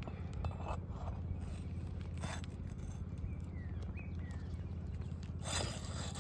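Scattered taps and three short scrapes on a shingle roof, consistent with shingles being worked loose by hand, over a steady low hum.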